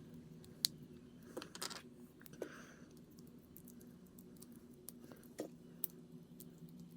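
Small plastic model-kit parts being handled and snapped together: a few scattered sharp clicks and taps over a faint steady hum.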